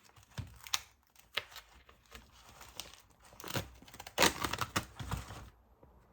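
Irregular crinkling and rustling, as of something crinkly being handled, in short sharp crackles that grow loudest about four seconds in and stop near the end.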